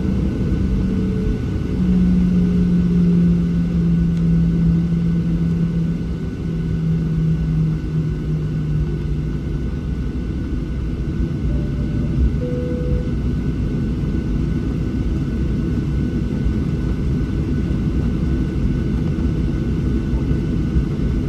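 Cabin noise inside a Boeing 737-700 on the ground: a steady low rumble from its CFM56-7B engines at idle and the air system, with a hum that sags slightly in pitch over several seconds and a faint steady high whine.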